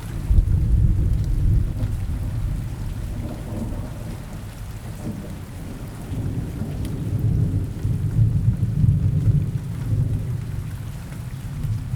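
Rolling thunder rumbling low under steady rain, starting suddenly and swelling again later before fading.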